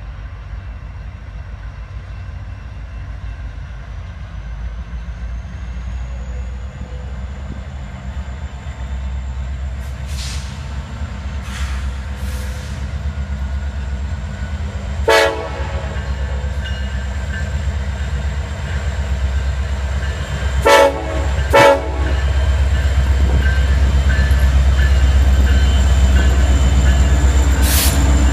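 Diesel freight train running with a steady low rumble that grows louder, its locomotive air horn sounding one short blast about halfway through and two short blasts a few seconds later.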